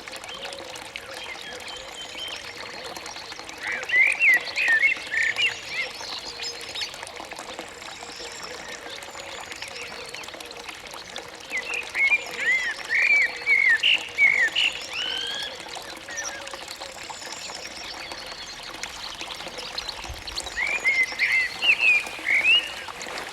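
A bird singing three bursts of quick, warbling song, each lasting a few seconds, over a steady trickle of running water.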